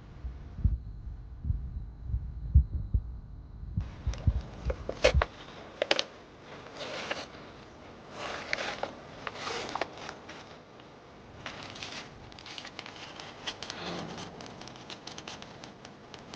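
Handling noises: for the first few seconds a run of low knocks and thumps, then irregular rustling, crinkling and sharp clicks, as of things being unpacked or handled.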